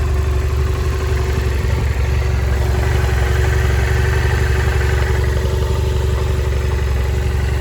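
BMW F650GS motorcycle's 798 cc parallel-twin engine running steadily at idle, with an even, unchanging note.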